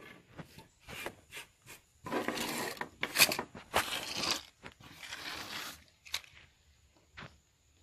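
Scraping and rubbing noises from hand work: several short strokes, then two longer, louder stretches of dense scraping in the middle, ending in a few isolated clicks.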